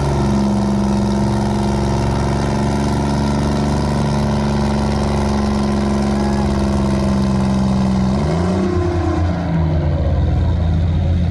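Tractor engine running hard at a steady speed while pulling a weight sled in a tractor pull. About eight seconds in, its pitch rises and shifts.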